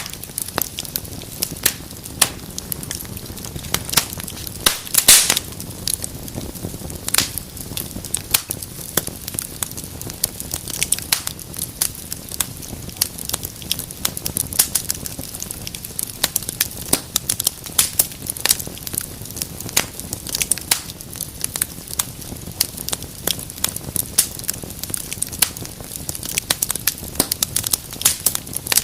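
Wood fire burning in a fireplace: a steady low rumble of flames with constant crackling and sharp pops, one louder pop about five seconds in.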